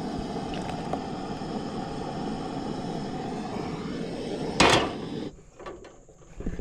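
Propane burner under the crawdad boil pot running with a steady low roar. A loud clank comes about four and a half seconds in, and the roar cuts off abruptly just after.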